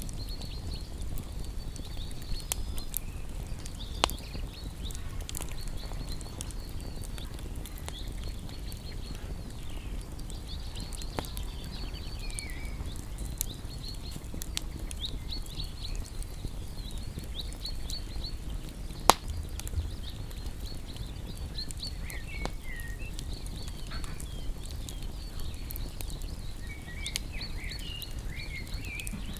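Wood fire crackling with a low steady rumble and scattered sharp pops, two of them louder, about four seconds in and near the middle. Small songbirds chirping throughout in quick high-pitched series, with a few lower warbled phrases late on.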